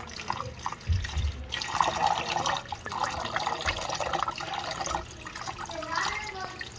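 Tap water running into a sink and splashing over choy sum as the leaves are rinsed of mud and sand, the splashing rising and falling as the bunch is moved under the stream.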